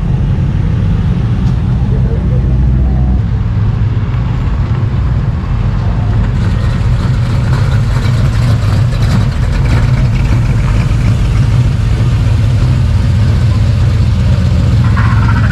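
A car engine running at a steady low rumble.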